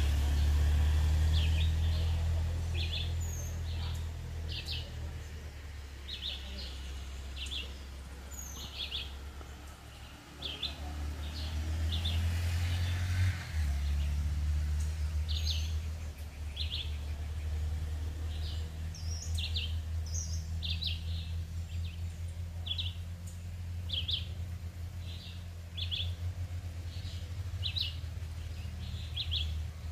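Forest birds singing, one of them repeating a short chirp about once a second, with a few high thin whistled notes among them. A steady low rumble runs underneath.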